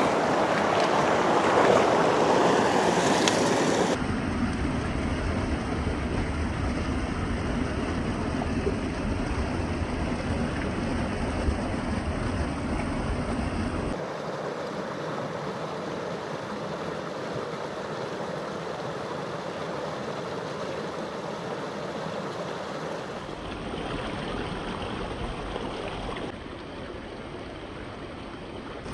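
Creek water rushing steadily, with some wind rumble on the microphone in places. The sound changes abruptly at several edit cuts.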